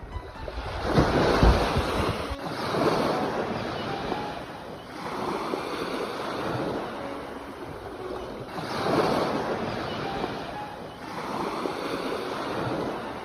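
Sea waves washing in and breaking on the shore, swelling and falling back about every two to three seconds.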